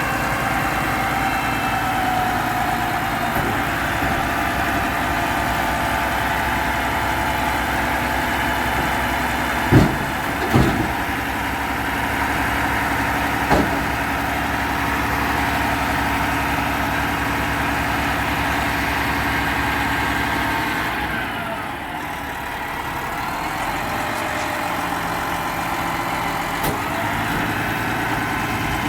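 Garbage truck engine running steadily. There are a few sharp bangs, two close together about ten seconds in and one a few seconds later. About two-thirds of the way through, the engine drops in pitch and eases off, then settles back to a steady run.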